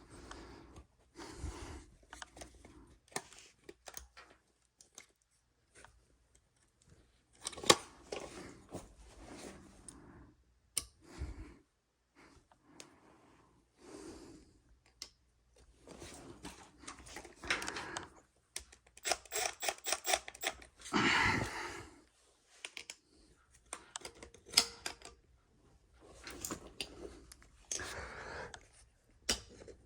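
Irregular clicks, knocks and scraping of hand tools and metal parts being handled during a blower motor and blower wheel swap, with a run of rapid clicking about two-thirds of the way through.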